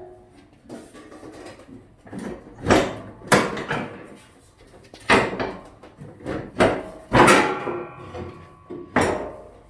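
A series of sharp clunks and rattles, about six knocks a second or so apart, some with a brief ringing, as the riding mower's hood is worked loose and lifted off.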